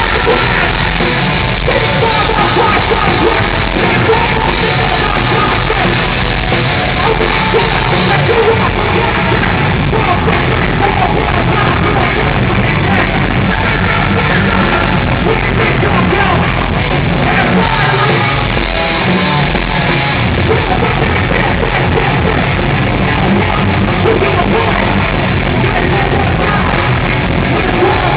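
Live heavy rock band playing loud and dense, with distorted guitars, drums and yelled, screamed vocals over them.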